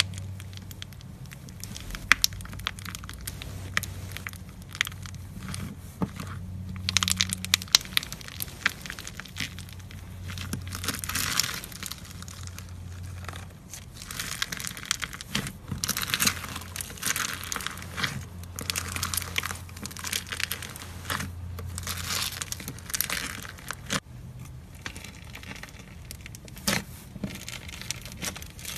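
Slime being squeezed and worked by hand, giving irregular crackling and small sharp pops in clusters, over a steady low hum.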